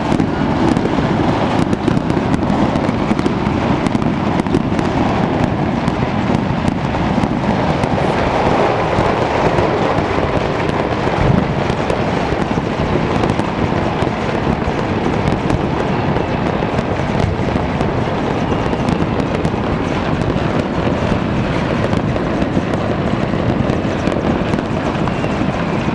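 Dense, unbroken crackle of fireworks and firecrackers going off all around, countless overlapping bangs and pops with no gap between them.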